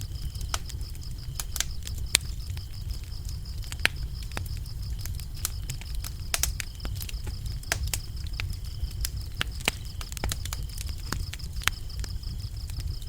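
Wood fire crackling, with irregular sharp pops over a low steady rumble, while crickets chirp in a continuous high trill.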